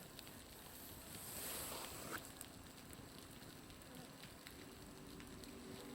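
Scattered small ticks and pops that sound like a crackling bonfire, mixed with meltwater dripping from a building's roof, with a brief hiss a second or so in.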